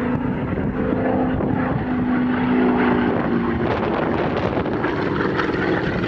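Curtiss Hawk 75A-1's Pratt & Whitney R-1830 Twin Wasp radial engine droning as the fighter flies its display, its pitch dropping a little past the middle as it passes, with some wind on the microphone.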